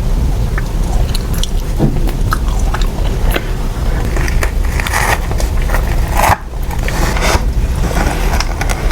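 Close-miked mukbang eating sounds: someone biting and chewing ice cream cake, with irregular wet clicks and smacks over a steady low rumble.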